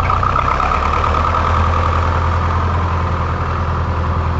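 A vehicle engine running steadily at idle: an even, unbroken drone that starts abruptly at the start.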